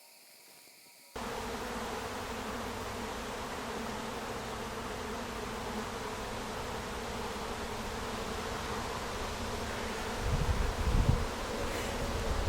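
A large swarm of honeybees buzzing loudly in a steady drone, as when a swarm is shaken into a hive box and takes to the air. The buzzing starts suddenly about a second in, with low rumbling near the end.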